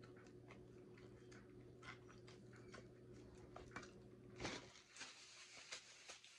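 Faint close-up mouth sounds of a person eating fried chicken: quick small wet clicks and smacks of chewing. A steady low hum underneath stops about four and a half seconds in, and a soft paper-napkin rustle follows near the end.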